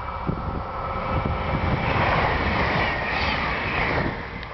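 Regina electric commuter train passing close at speed: a rush of wheel and air noise that builds, is loudest from about two to four seconds in, then eases as the cars go by. Wind buffets the microphone throughout.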